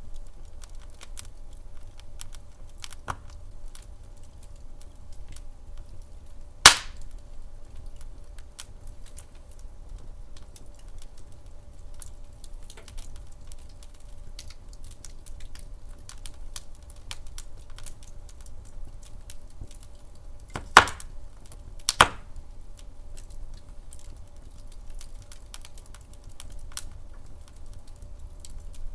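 Wood fire crackling in a fireplace: a constant scatter of small crackles, with a loud pop about a quarter of the way in and two more close together about three-quarters through.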